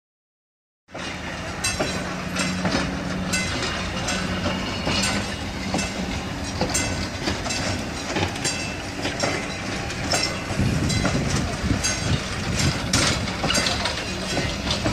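Passenger train cars rolling past, their wheels clicking repeatedly over the rail joints, over a steady low hum. The sound cuts in suddenly about a second in.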